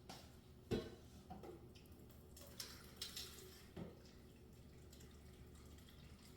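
Faint kitchen sounds of water being added to a soup pot: light splashing and dripping, with a sharp clunk about a second in and a few softer clinks after it.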